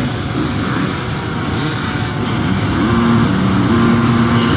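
Several dirt bike engines running and revving together, a dense loud engine noise; from about three seconds in a steady held tone sits over them, changing pitch in steps.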